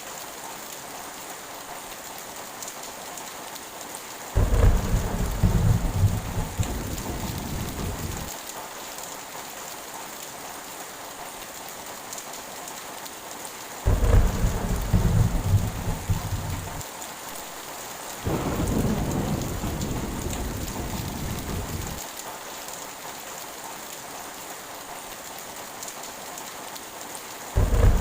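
Heavy rain falling steadily, with four rolls of thunder. The rumbles start suddenly about four, fourteen and eighteen seconds in and again just before the end, each lasting three to four seconds.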